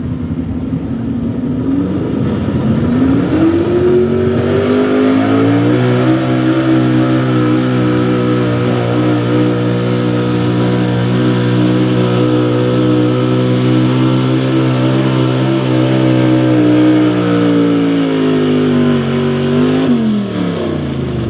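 Small-block V8 of a 4x4 pulling truck running at full throttle on a pull. The revs climb over the first few seconds, hold high and nearly steady with a slight sag under load, then fall away sharply near the end.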